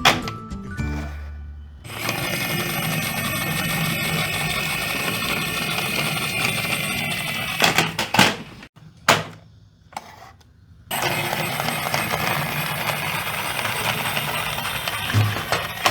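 Toy bus rattling and clattering as it rolls along a toy track, with many small clicks and knocks and a couple of short pauses.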